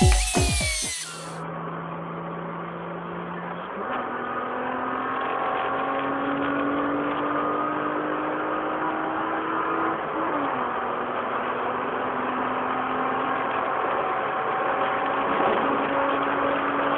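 Hyundai Tiburon's engine heard from inside the cabin while driving, over steady road noise. The engine note steps up about four seconds in and climbs slowly as the car accelerates, dips once about ten seconds in, then climbs again.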